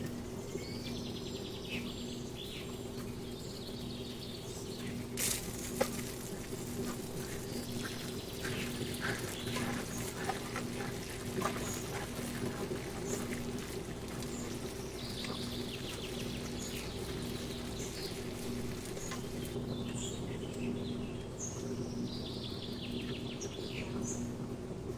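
Birds singing in repeated descending trills, over a steady low pulsing hum, with two sharp clicks about five seconds in.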